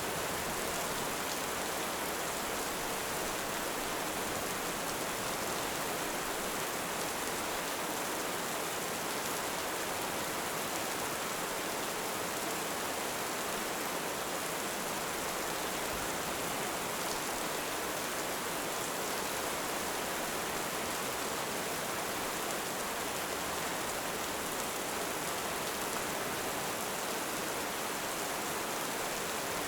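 Heavy rain falling in a steady, even hiss, without let-up or thunder.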